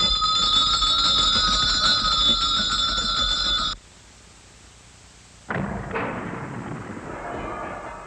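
Many bells ringing together with rapid strikes, cutting off suddenly a little under four seconds in. After a brief lull, a sudden loud crash rings and rumbles away, and another begins near the end.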